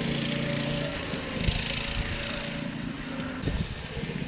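Minibike's small engine running steadily, with wind hiss on the microphone.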